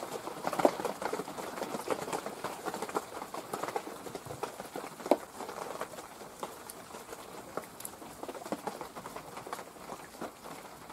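Light rain pattering on dry leaves and dripping into a bucket of water: a dense, irregular patter with a couple of louder drops.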